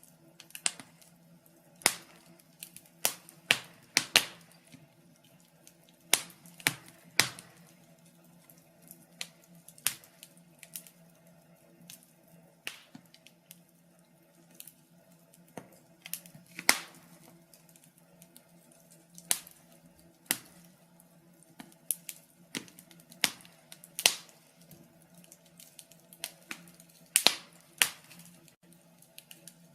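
Wood fire in a fireplace crackling: irregular sharp pops and snaps, up to a few a second, some loud, over a faint steady low hum.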